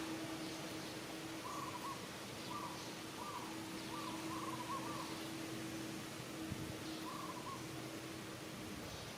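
Short wavering animal calls, repeated in small groups of two to four every second or two, over a steady low hum.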